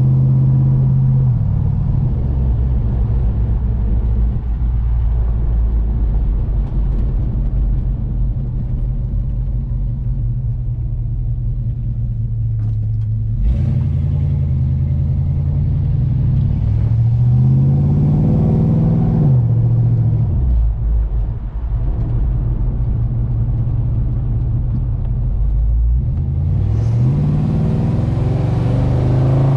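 Chevrolet Chevelle's exhaust through single-chamber mufflers on 2.5-inch stainless true duals, heard from inside the open cabin while driving: a steady rumble whose pitch climbs under acceleration about halfway through and again near the end, dropping back as the revs fall in between.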